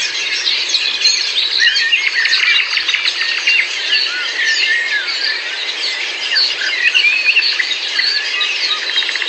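A dense chorus of many songbirds, overlapping short chirps and whistled notes with a few rapid trills mixed in, steady throughout.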